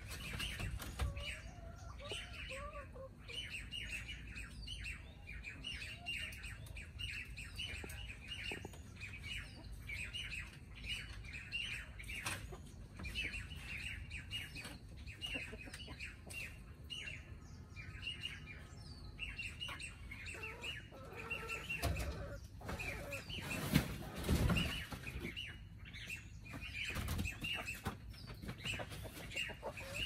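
Small birds chirping rapidly and continuously, with a louder knock and rustle about three-quarters of the way through.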